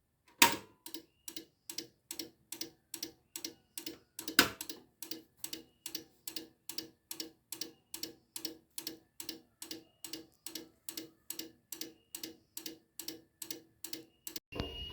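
Steady, regular ticking, about two and a half ticks a second, with two louder ticks in the first few seconds; a louder, different sound starts right at the end.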